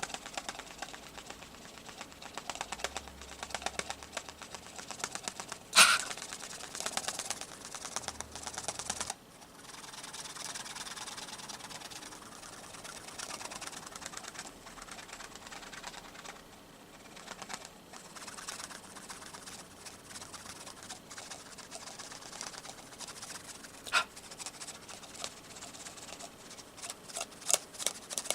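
Fingers tapping and scratching on a candle jar: a dense, continuous run of small taps and scrapes, with one sharp knock about six seconds in and a few more knocks near the end.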